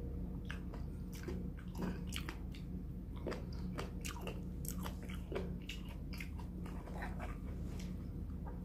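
A person chewing a mouthful of food close to the microphone: an irregular run of short crunchy clicks, several a second.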